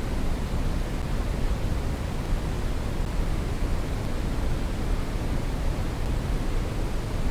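Brown noise: a steady, even hiss with its energy weighted toward the bass, falling off toward the treble, without change or events.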